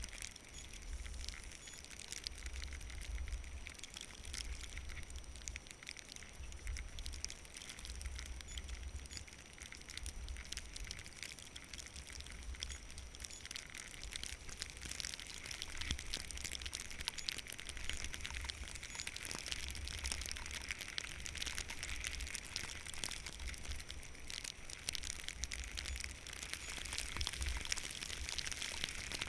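Skis sliding over snow with a steady crackling hiss, while wind buffets the microphone in uneven low gusts. The hiss grows somewhat louder in the second half.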